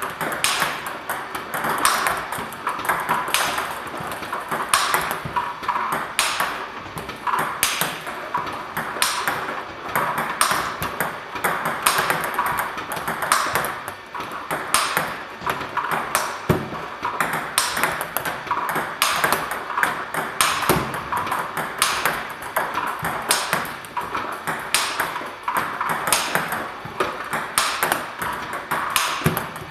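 Table tennis ball struck again and again with a racket and bouncing on the table, a steady rally of sharp clicks about one and a half a second.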